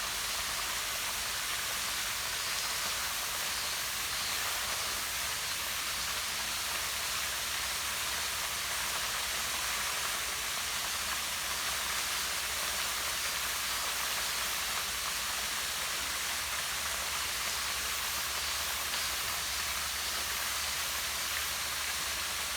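Small waterfall pouring down a rock face into a pond: a steady, even rush of falling water.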